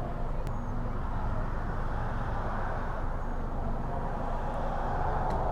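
A steady low mechanical hum under an even hiss, unchanging throughout, with no distinct knocks or events.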